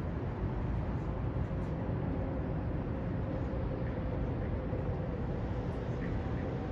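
Steady low rumble of distant city traffic, with a faint hum that drifts slowly lower through the middle.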